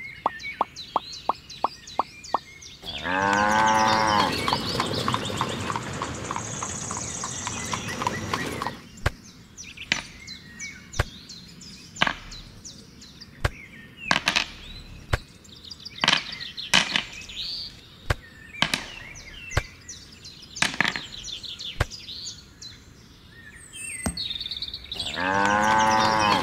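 A cow mooing twice: one long moo about 3 seconds in and another near the end. Between them come light clicks and knocks of small toy bricks being handled and set down, and faint bird chirps.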